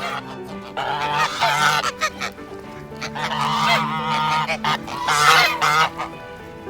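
Geese honking in three loud bursts of wavering calls, over steady background music.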